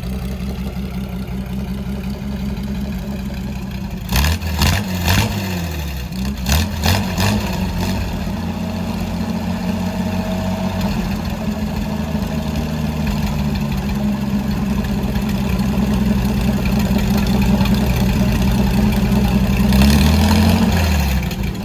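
GAZ-51B inline-six petrol engine running, with the revs blipped up and down a few times about four to seven seconds in and raised again near the end before dropping back.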